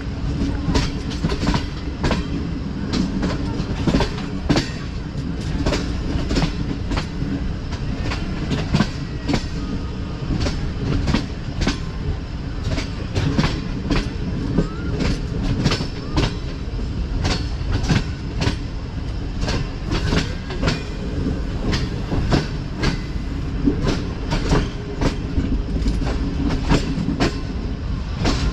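Passenger train running along the track: a steady rumble of wheels on rail with quick, uneven clacks as the wheels cross rail joints.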